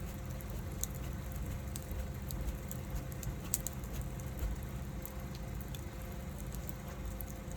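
Wood fire crackling: scattered sharp pops and ticks over a low, steady rumble of burning.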